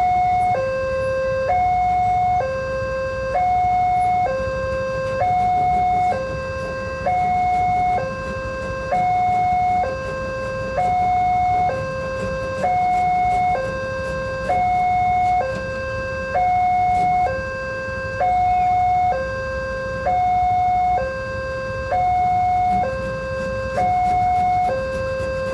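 Railway level-crossing warning alarm sounding: an electronic two-tone signal alternating between a higher and a lower tone, each held about a second, which warns that a train is approaching. A low rumble lies underneath.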